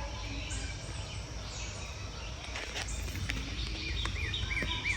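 Birds chirping over a steady low background rumble, with a quick run of short repeated chirps in the last second or so.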